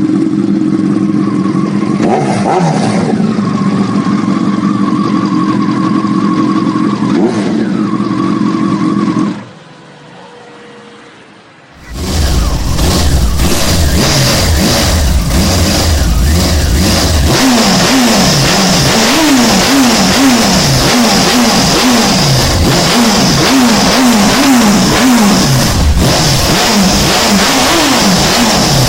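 Honda CBR929RR Fireblade's inline-four running through an aftermarket exhaust. It idles steadily for about nine seconds, goes quieter for a couple of seconds, then idles again in a second recording. In that second recording it is revved in a quick series of throttle blips, each rising and falling in pitch, until near the end.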